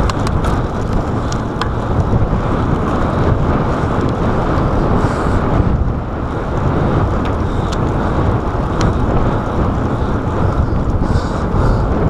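Wind buffeting a chest-mounted GoPro's microphone while cycling at speed, a steady rushing noise with a few faint ticks scattered through it.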